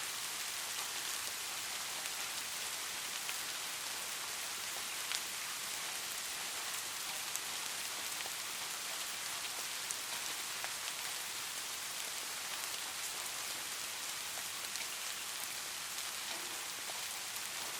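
Light rain falling steadily, an even hiss with scattered sharper ticks of single drops.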